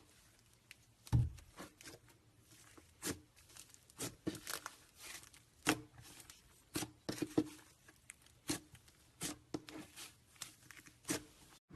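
Slime being squeezed and stretched by hand, giving off irregular sticky pops and crackles, some sharper and louder than others.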